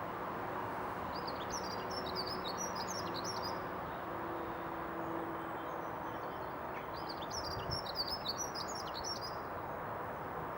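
A small songbird singing two quick phrases of rapid high chirping notes, about a second in and again about seven seconds in, over a steady background hiss.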